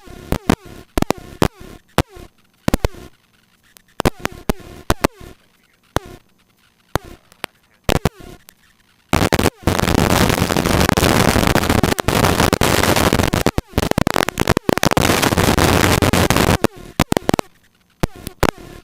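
Irregular sharp clicks and crackles, then loud steady static hiss on the helicopter's intercom and radio audio for about seven and a half seconds, followed by more crackles.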